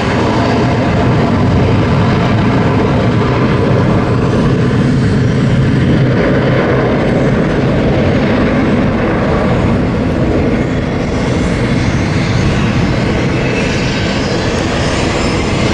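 Jet engines of a Boeing 757 at takeoff power, a loud steady roar as the airliner takes off.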